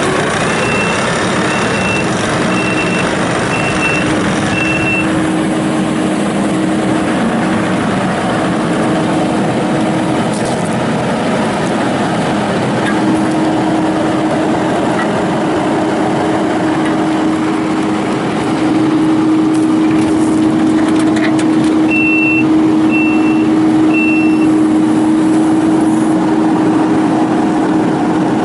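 Kubota SVL95-2S rubber-track skid steer's four-cylinder diesel engine running steadily while the machine moves. Its reversing alarm beeps about once a second for the first few seconds, then three more times later on. The engine gets louder a little past the middle.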